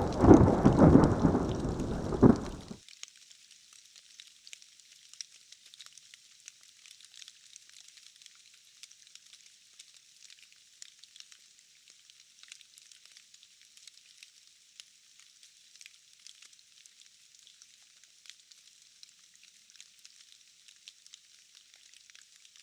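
A thunder rumble over steady rain, dying away about three seconds in. After that only the rain is left: a steady hiss of falling rain with small crackling drops.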